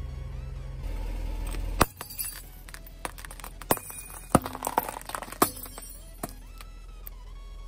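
A car's engine hums low, then a plastic toy bird cracks under the tyre with one loud snap about two seconds in. A scatter of smaller cracks and clicks follows as it breaks apart.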